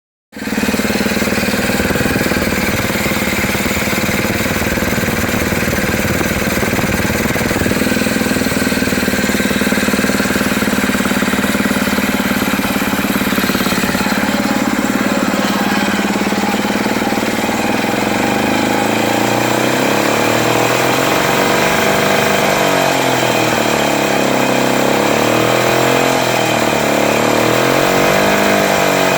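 1960s Mid-Jet outboard motor with a Tecumseh powerhead running steadily. From about eighteen seconds in, its tone begins to waver up and down.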